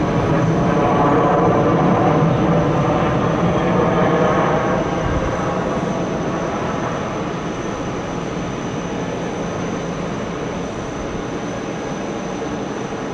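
Jet airliner engines running loud, then slowly fading over the second half as the aircraft moves away.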